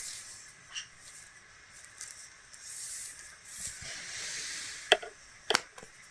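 Soft rustling and handling noises as a craft kit is handled and measured, with two sharp clicks about a second from the end.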